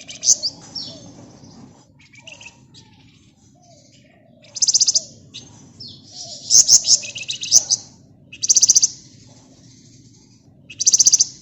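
A flamboyan (wergan Jawa, the Javan fulvetta) singing in tight, rapid, high buzzy trills. This is the dense 'ngebren' song. It comes in four loud bursts of half a second to about a second each, with softer chirps and short whistled notes between them.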